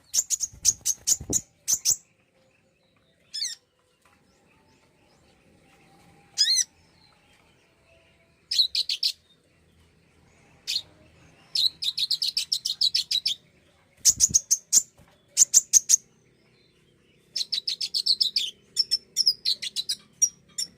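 Konin (kolibri ninja) sunbird song: bursts of rapid, high-pitched chirping trills separated by short pauses, with a longer run of chirps near the end.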